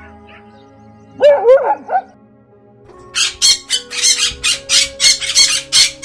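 A dog gives a short, bending yelp or bark, then about two seconds later a bird starts squawking: a rapid run of harsh calls, about four a second. Background music plays underneath.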